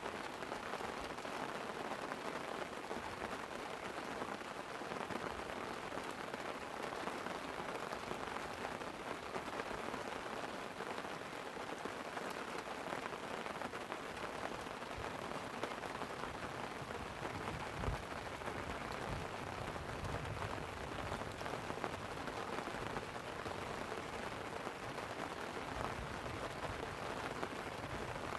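Steady light rain pattering on a tent. Low rumbling joins in the second half.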